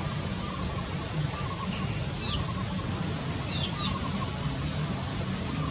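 A bird giving a few short, high, down-sweeping chirps, about two and three and a half seconds in, over a steady background hiss with a low hum.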